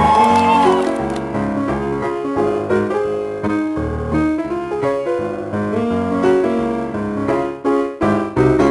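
Piano music, a string of chords and melody notes played at an even pace, with a held high note that ends just under a second in.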